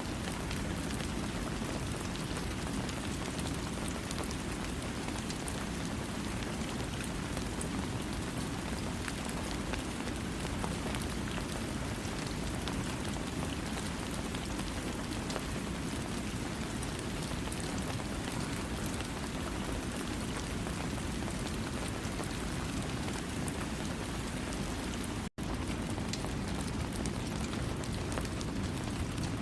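Steady rain falling, with no thunder. It cuts out for an instant about 25 seconds in, then carries on unchanged.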